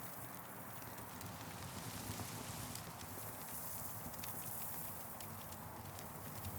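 Campfire burning, with scattered sharp crackles and pops over a steady hiss.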